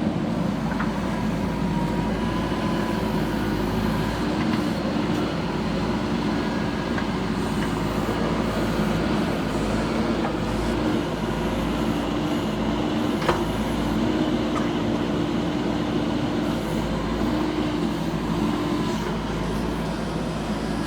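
JCB 3DX backhoe loader's diesel engine running steadily under work, its tone shifting a little up and down. A single sharp knock about two-thirds of the way through.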